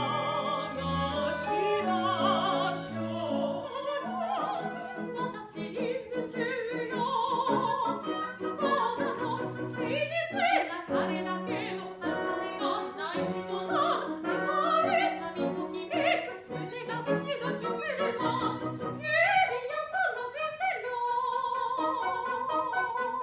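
Operetta music: a singing voice with strong vibrato over orchestral accompaniment, ending in a long held note.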